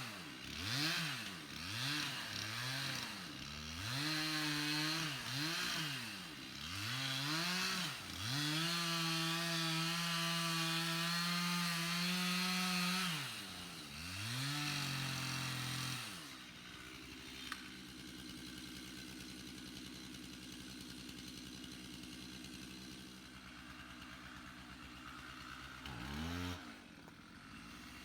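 Two-stroke chainsaw revved up and down in quick blips, then held at high revs for about five seconds as it cuts into the pine. It then drops back to a steady idle, with one short blip of the throttle near the end.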